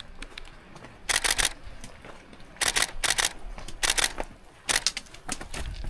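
Camera shutter firing in short rapid bursts, several bursts of a few quick clicks each.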